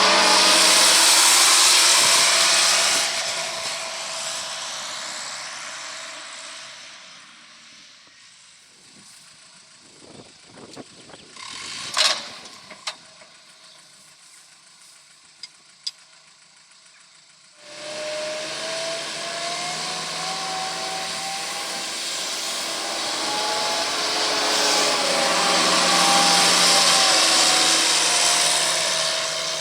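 Deutz Fahr Agrotron 6190 TTV tractor with a Criap round baler in tow, running loud as it comes past and fading away. A quiet stretch follows with a few clicks and one sharp knock. Then it cuts back in, loud again, with a whine that rises a little before fading once more.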